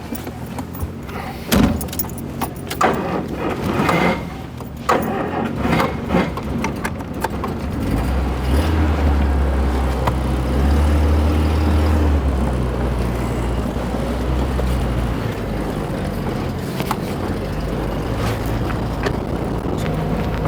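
Sharp clicks and knocks, like keys and car fittings being handled, then a car engine running with a steady low rumble from about eight seconds in.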